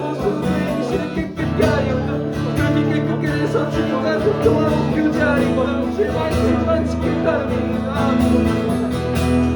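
Quiet worship music: guitar chords strummed and held, played as accompaniment under the prayer.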